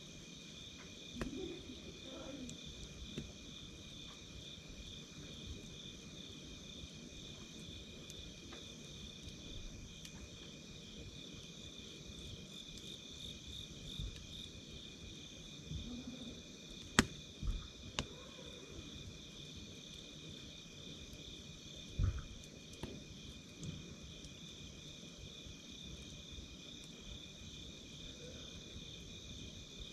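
Insects trilling steadily in a continuous pulsing chorus, with a few sharp crackles and pops from a wood campfire, the loudest a little past halfway and again about five seconds later.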